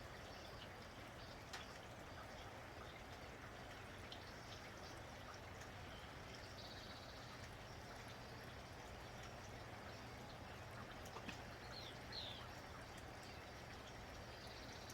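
Steady, faint patter of rain with scattered drips, and a few brief bird chirps about halfway and near the end.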